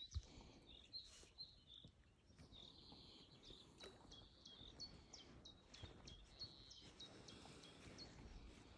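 Faint birdsong: many short, high chirping notes repeated throughout, over a faint low background hum.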